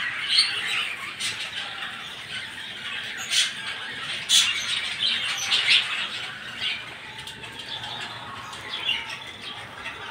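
Budgerigars chattering, many short chirps and squawks overlapping, with a few sharper squawks in the middle.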